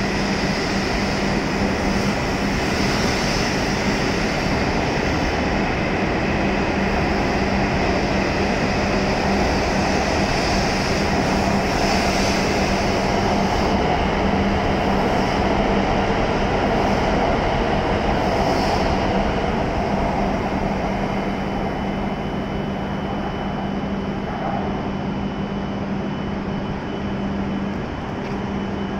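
E7-series shinkansen train pulling out of the station past the platform: a steady rush of running noise over a steady low hum, easing slightly after about twenty seconds, when a faint high steady tone comes in.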